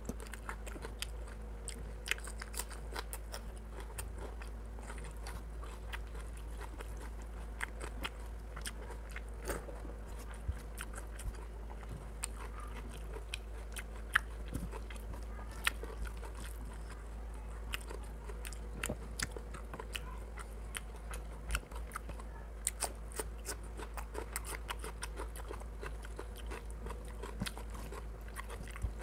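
Close-miked eating sounds: a person chewing a mouthful of rice and chicken curry, with many short wet mouth clicks and smacks scattered throughout, over a steady low hum.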